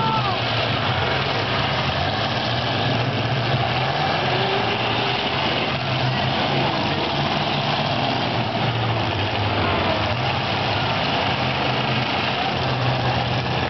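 Several demolition derby car engines running together, a steady low engine drone.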